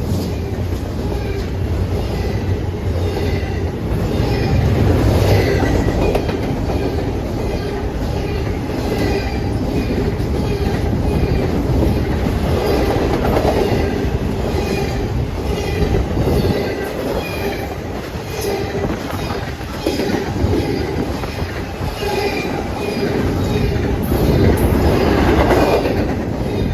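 Freight train cars rolling past at close range, the wheels clacking in a steady rhythm over rail joints, with some wheel squeal.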